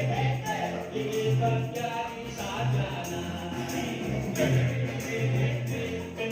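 Band music: an instrumental passage with a pulsing bass line, melody lines and steady jingling percussion like a tambourine.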